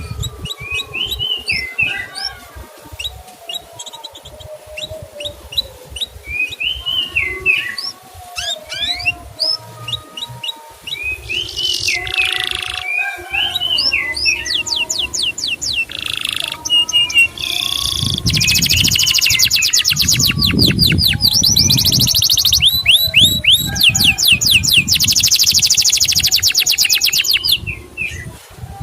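Male canary singing: a string of varied slurred, whistled notes, then, from a little past the middle, long rapid trills of quickly repeated notes.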